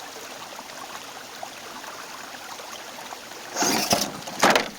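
Steady rushing hiss, then two loud bursts of noise near the end, the first about half a second long.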